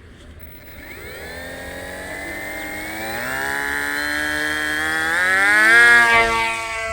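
Brushless electric motor of an RC model jet throttling up, its whine rising in pitch in steps. It is loudest about six seconds in, then eases off a little.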